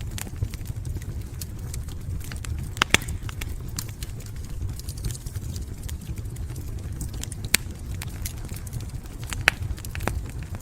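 Wood fire burning in a fireplace: a steady low rumble of flames with scattered crackles and sharp pops, the loudest pop about three seconds in and two more near seven and a half and nine and a half seconds.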